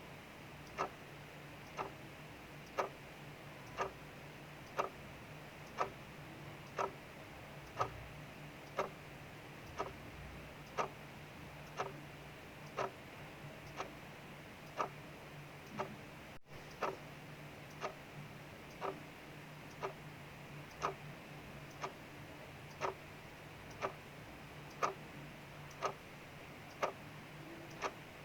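Mechanical clock ticking steadily, about one tick a second, over a steady soft hiss of rain.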